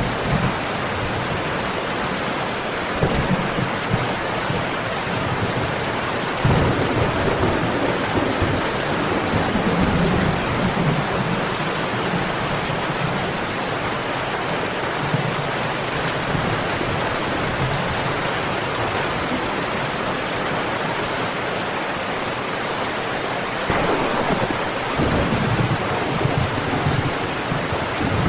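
Steady heavy rain with low, rolling thunder that swells in several times: briefly about three seconds in, longer a few seconds later, and again near the end.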